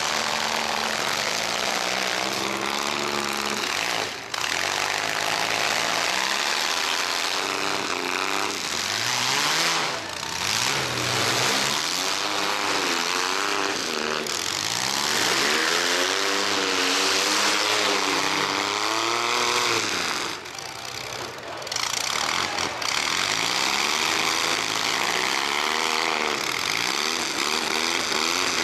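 Several mini-truck engines revving up and down over and over, the pitches overlapping, with a constant loud rush of noise beneath.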